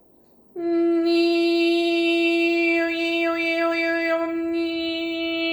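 A woman's voice toning one long, steady sung note, starting about half a second in. The vowel shifts slightly midway while the pitch holds.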